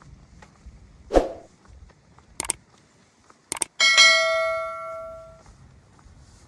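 A single metallic ring, like a small bell struck once, dying away over about a second and a half, just after two sharp clicks. A heavy footstep thumps about a second in.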